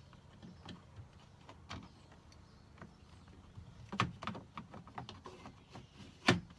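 Clicks and knocks from handling a minivan's power sliding door and its door-handle screw, with a sharper knock about four seconds in and the loudest one near the end.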